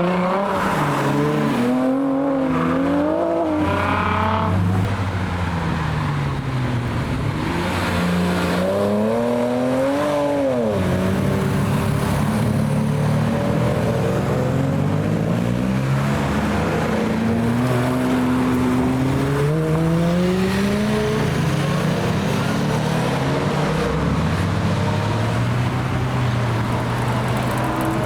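Performance car engines revving and accelerating one after another, their pitch climbing and dropping repeatedly as they shift through the gears. One sharp rev about ten seconds in cuts off suddenly.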